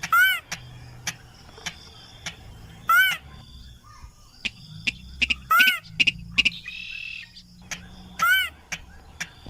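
Rice-field crake (sintar) call on a lure recording: a loud arched call note repeated four times, about every two and a half to three seconds, with sharp ticks between and a short buzzy note near the end.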